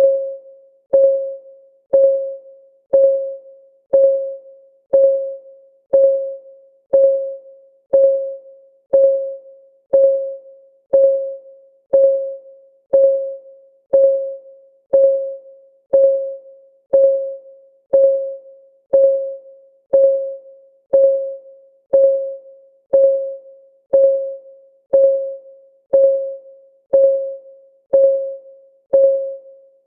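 Countdown timer's clock-tick sound effect, one tick a second, steady and even. Each tick is a short pitched knock that fades quickly.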